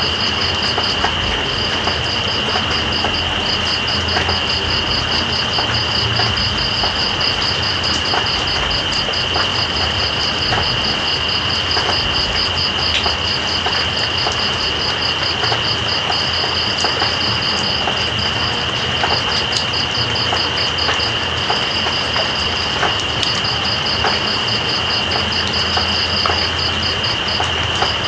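Night insects, crickets or the like, trilling: one steady high-pitched whine and a faster pulsing chirp that breaks off and resumes several times. Beneath them, the steady hiss of rain with scattered drop ticks and a low rumble.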